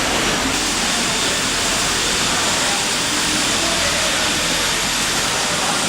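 Automatic pattern sewing machine running, a steady loud hiss and whir with no separate stitch beats standing out.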